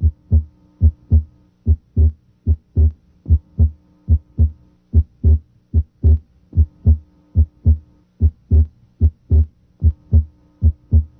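Heart sounds through a stethoscope diaphragm at the left second interspace: regular paired beats, S1 then S2, about 75 a minute. S2 is split abnormally wide, the split coming and going with the patient's deep breathing. A faint hum sits under the beats at times.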